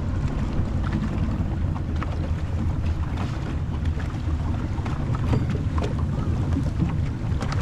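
Motorboat engine running steadily under way, with wind buffeting the microphone and a few short knocks.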